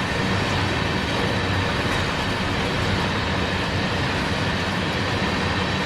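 Double-stack intermodal freight train rolling past, a steady rumble of wheels on rail.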